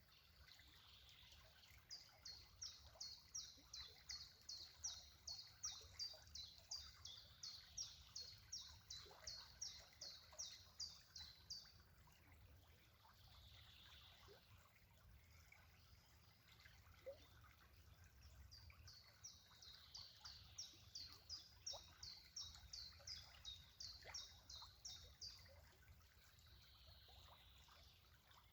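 A bird singing two long series of high, rapidly repeated notes, about two or three a second, each note sliding downward; the first series runs about ten seconds, the second starts midway and runs about six seconds. Faint, over a soft steady background hiss.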